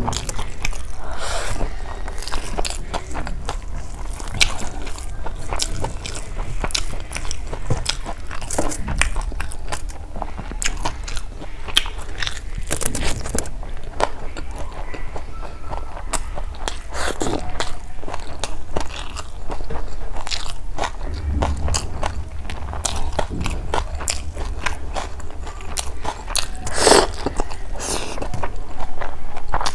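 Close-miked chewing of hand-fed mouthfuls of rice and curry, with many short wet mouth clicks.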